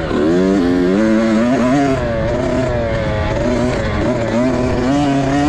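Several motocross dirt bikes running at once, their engine notes rising and falling as the throttles are worked.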